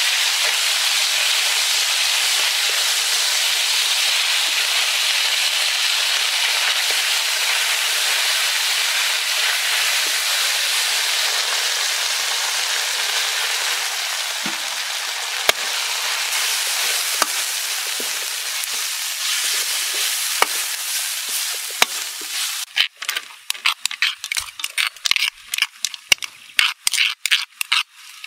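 Garlic and seasoning frying in hot oil in a metal wok, a steady hissing sizzle with a few sharp clicks. About 23 seconds in, the steady sizzle gives way to choppy, irregular crackling and popping.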